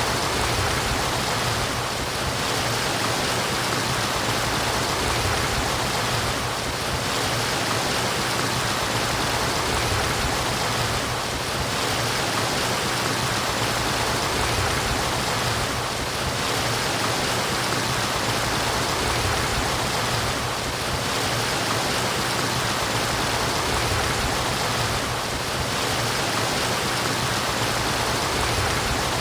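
Flowing water murmuring steadily, like a stream running over stones.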